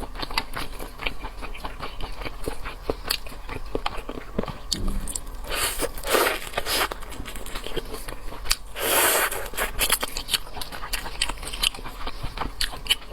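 Close-up eating sounds of shellfish: frequent crunching and cracking of shells and chewing, with two longer noisy stretches about six and nine seconds in.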